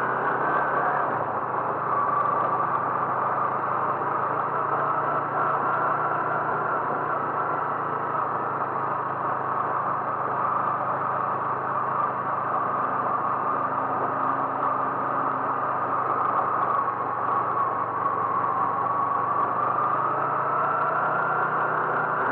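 A vehicle engine running steadily, with a whine that slowly drops in pitch early on and rises again near the end.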